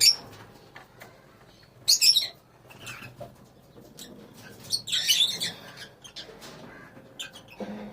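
A colony of lovebirds chirping and screeching in short, shrill bursts, with three loud bouts and a few light clicks between them.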